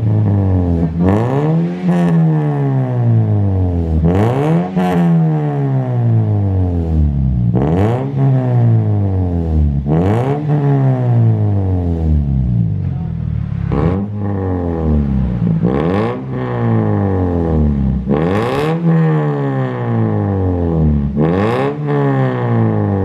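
Toyota Vios four-cylinder engine revved repeatedly through an aftermarket NDK Exhaust system with header, resonator and muffler. About nine blips, each rising quickly in pitch and falling back more slowly toward idle, every two to three seconds.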